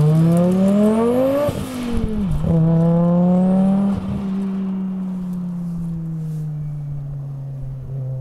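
Audi quattro's turbocharged five-cylinder engine accelerating hard away, the revs climbing and then dropping at two gear changes, about two and four seconds in. After the second shift it holds a steadier, lower note that fades as the car draws off into the distance.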